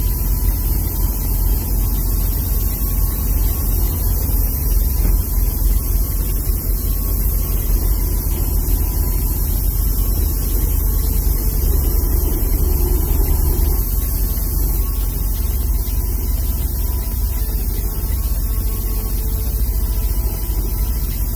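Steady low drone and hiss of a diesel semi-truck heard from inside the cab, the truck held to about 5 mph by a DEF-fault speed derate.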